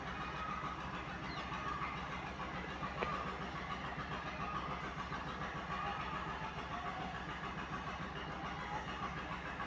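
Steady low background hum and noise, with one faint click about three seconds in.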